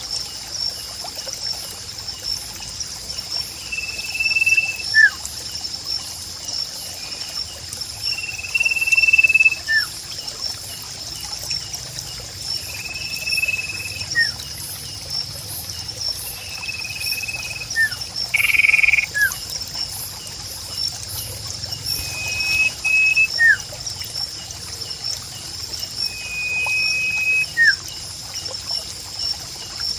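A songbird repeating a short level whistle about every four to five seconds, each followed by a brief downward-sliding note, over a steady pulsing high-pitched insect drone and trickling water.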